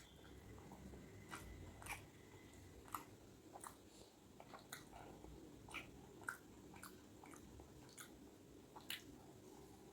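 A person chewing food close to the microphone: faint, with about a dozen short wet mouth clicks and smacks spread through the stretch.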